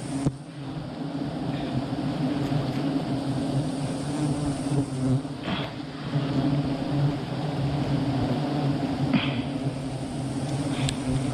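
Steady, dense buzzing of a large mass of honey bees around an opened hive, with a few brief rustling knocks of handling.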